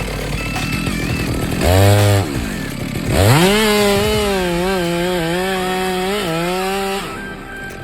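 Chainsaw revved briefly, then run up to full speed and held as it cuts, its pitch dipping slightly a few times under load before dropping off about a second before the end.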